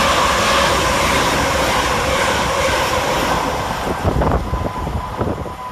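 Two coupled Class 350 electric multiple units passing fast through the station: a loud rush of train noise with a steady motor tone, easing off about four seconds in as the train goes by, followed by a run of sharp clicks from wheels over rail joints.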